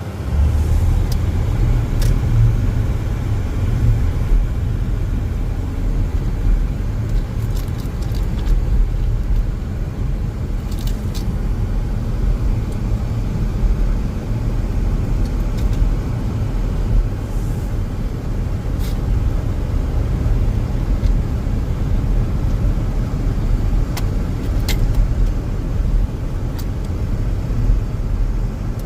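Car driving: a steady low rumble of engine and road noise, with a few faint clicks here and there.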